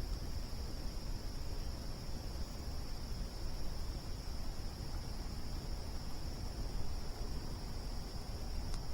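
Crickets chirping in a steady, unbroken high chorus, over a low rumble, with a single sharp click near the end.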